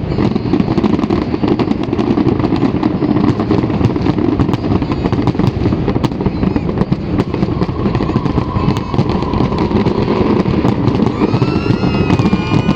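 Fireworks display going off in a dense, continuous barrage of booms and crackling, with no gaps.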